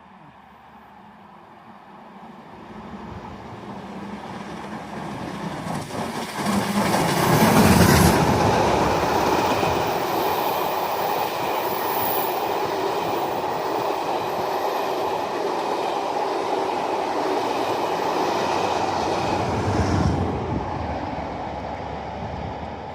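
Southern Railway West Country Pacific steam locomotive 34046 Braunton climbing up the grade towards the microphone and passing at its loudest about eight seconds in. Its train of coaches follows, rolling past with a steady rumble and wheel clickety-clack. About twenty seconds in a diesel locomotive at the rear passes, and the sound then fades.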